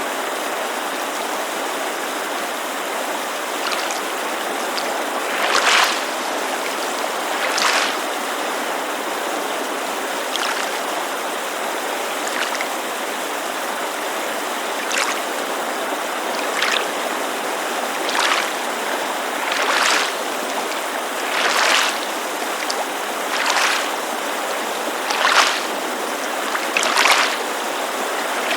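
Steady rush of a creek mixed with small waves lapping against a lakeshore, a soft splash about every two seconds, sparse at first and regular in the second half.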